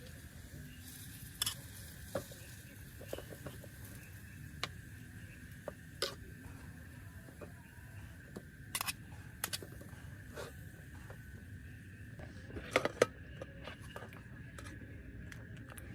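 Scattered sharp clicks and light knocks, about fifteen of them, with a quick cluster of the loudest about thirteen seconds in, over a steady low rumble and a faint steady high-pitched hum.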